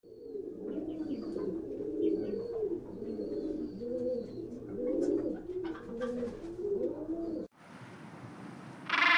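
A flock of pigeons cooing, many low cooing calls overlapping, with faint high chirps above them. It cuts off suddenly about seven and a half seconds in, giving way to a steady hiss.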